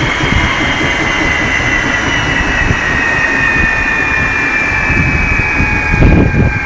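Helicopter in flight: a steady turbine whine that drifts slowly lower in pitch over a dense rotor and engine rumble, with a brief louder low surge about six seconds in.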